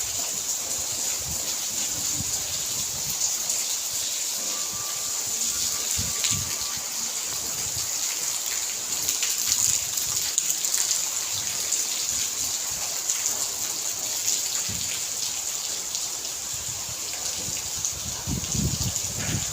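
Rain falling in a steady hiss.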